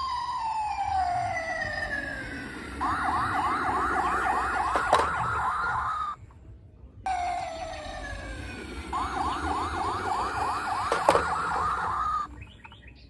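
Electronic emergency-vehicle siren: a slow falling wail, then a fast yelp of about four sweeps a second. It cuts off abruptly about six seconds in, then the same pattern plays once more.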